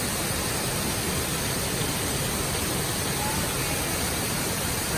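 Steady, even rush of Shiraito Falls, water streaming down a broad rock face.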